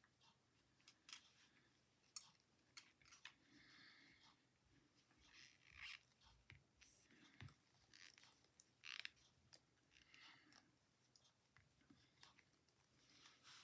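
Faint, irregular clicks of knitting needles and soft rustles of yarn as stitches are worked by hand.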